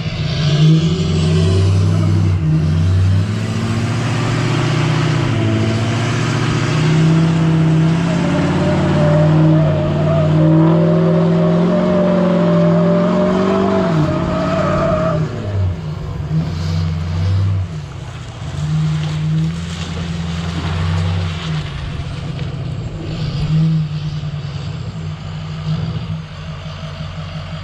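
Vehicle engine running on the road, its pitch rising and falling, with a wavering squeal in the middle stretch that sounds like tyres.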